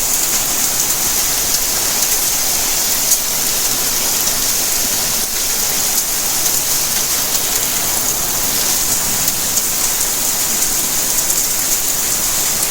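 Steady rainfall, an even hiss of rain on surfaces with a few sharper drop ticks here and there.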